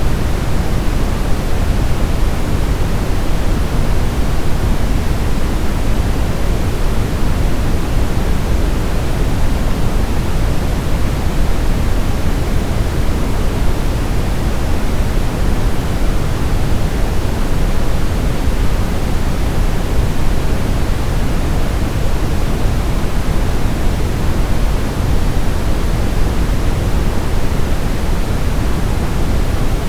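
Sleep-aid noise: steady, even, unchanging noise with most of its weight in the low end, a deep rush rather than a bright hiss.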